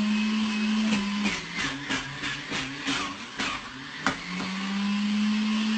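A small electric motor hums steadily at one pitch. It drops out just over a second in, giving way to about three seconds of wavering lower tones and a run of sharp clicks. The hum then resumes.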